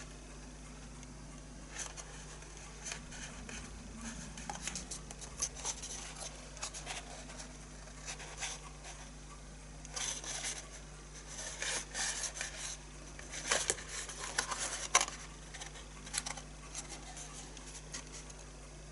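Card stock being handled, folded and pressed together by hand as glued tabs of a small paper box base are stuck down: irregular rustling and crackling with small taps, busiest about halfway through.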